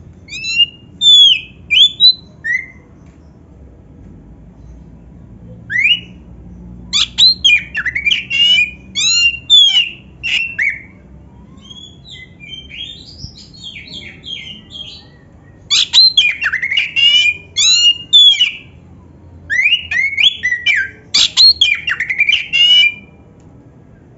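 Oriental magpie-robin (kacer) singing in bursts of loud, quick sliding whistles mixed with harsh chattering notes. It sings several phrases with short pauses between them, over a faint low background hum.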